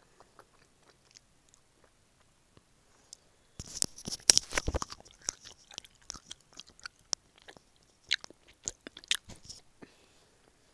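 Close mouth sounds of chewing gummy candy: wet clicks and smacks, faint at first, a dense loud run a few seconds in, then scattered clicks until shortly before the end.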